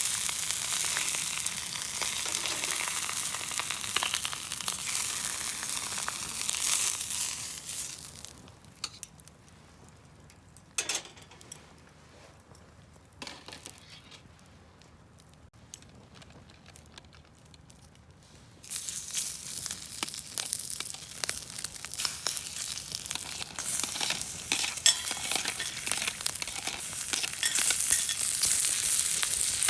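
Food sizzling and frying in a pan, a dense crackling hiss. About eight seconds in it falls away to a quiet stretch with a few light knocks, then starts again loudly about eighteen seconds in.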